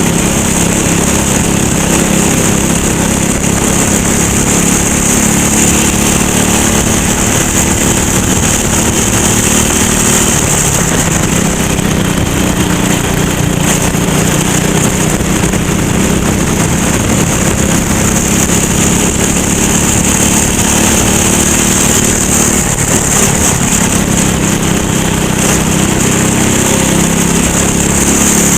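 Go-kart engine running continuously at race pace, its pitch rising and falling with the throttle, over a steady high hiss.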